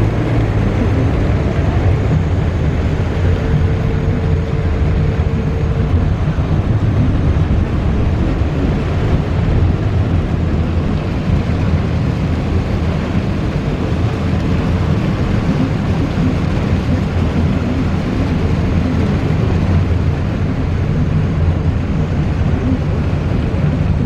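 A car driving in heavy rain: a steady low rumble of engine and tyres on the wet road under an even hiss of rain.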